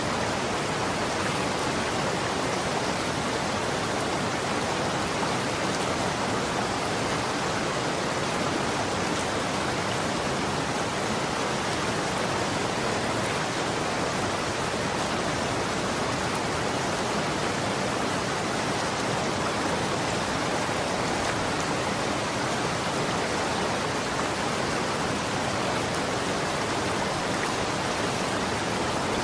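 Running water, a steady, even rush without distinct splashes or changes.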